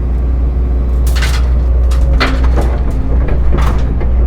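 Cat 312 excavator's diesel engine running steadily under load, with several short scraping knocks and hisses as it works.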